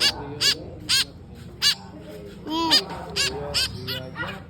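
White-breasted woodswallow (kekep babi) giving a series of about eight short, sharp, harsh calls, roughly two a second.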